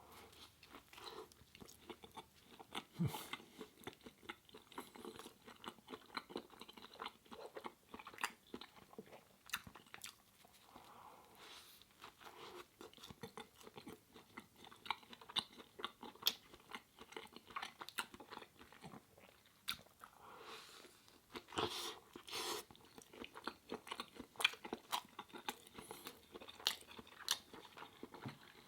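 Close-miked eating: a person biting and chewing a vegan mushroom burger, with frequent small mouth clicks and a few louder bites about three seconds in and again around two-thirds of the way through.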